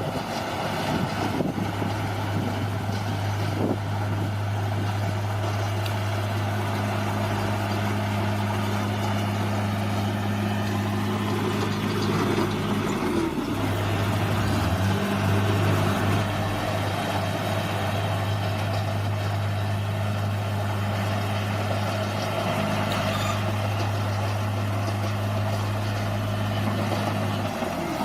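Bulldozer's diesel engine running steadily, with its pitch dipping briefly about halfway through and again near the end.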